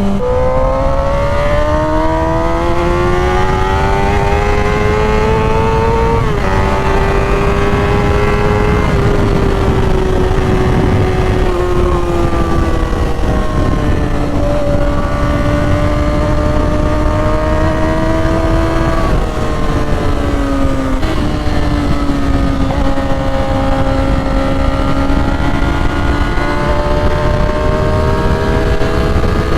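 Motorcycle engine under way: its pitch climbs for the first several seconds, drops with a gear change, then holds at cruising speed, easing up and down, with another sharp change in pitch about two-thirds of the way through. Wind rushes over the microphone throughout.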